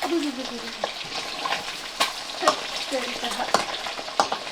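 Food frying in hot oil in a pan: a steady sizzle with sharp crackles and pops, and stirring in the pan.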